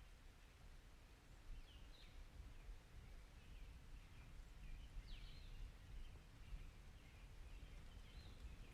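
Faint birds chirping, with short calls at about two, five and eight seconds in, over a low steady rumble.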